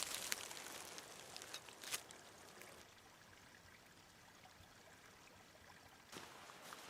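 Faint running water, an even hiss, with a few small sharp clicks in the first two seconds; it grows quieter midway and rises again near the end.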